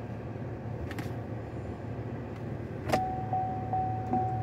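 A power roof feature of a 2016 Cadillac CT6, most likely the sunroof or its shade, runs on its electric motor inside the car with a steady low hum. A click comes about three seconds in, followed by a steady high tone with a few light ticks.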